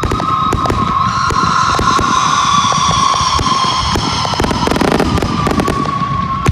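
Fireworks going off: a rapid scatter of bangs and crackles over a low rumble, with a steady, slightly wavering high whine running underneath.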